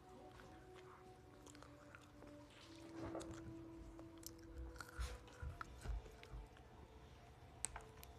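Close-miked chewing and biting of potato wedges, with small mouth clicks and soft thumps, picked up by a clip-on microphone on the eater's shirt.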